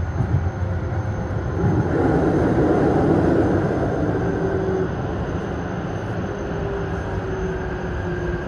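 Keisei electric commuter train running into a station, heard from the driver's cab: a steady rumble of wheels on rail, with a faint whine that falls slowly in pitch from about four seconds in as the train slows.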